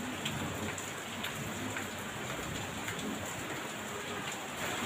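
Heavy rain falling steadily, with many separate drops ticking on a hard surface.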